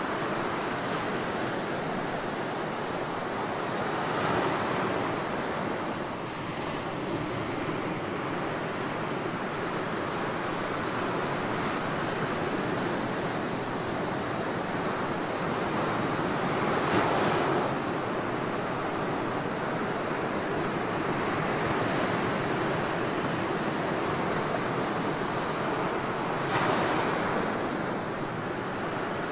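Ocean surf washing on a beach: a steady rushing wash with three louder waves breaking, one a few seconds in, one about midway and one near the end.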